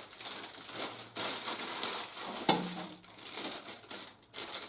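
Plastic packaging and toy parts rustling and crinkling as they are handled, with one sharp click about two and a half seconds in.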